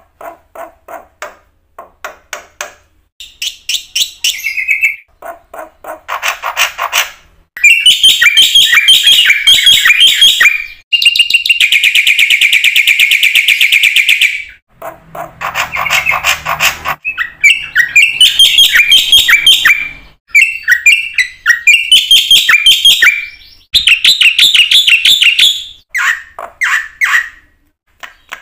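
Black-winged starling (jalak putih) singing loudly in rapid chattering, whistled phrases broken by short pauses, with a long buzzy rattle held for a few seconds near the middle.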